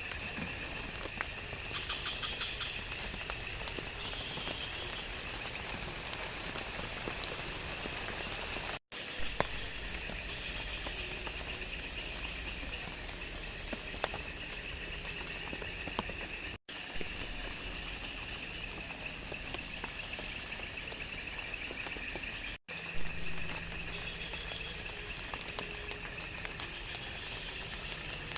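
Tropical forest ambience: a steady chorus of insects with scattered faint ticks and pops. The sound cuts out briefly three times.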